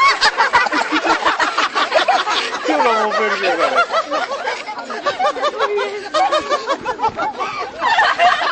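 Birds calling in rapid, overlapping chattering notes that sound like laughter.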